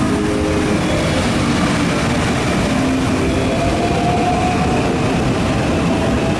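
Electric train running at a station platform: a steady, loud rushing rumble with faint held motor tones coming and going.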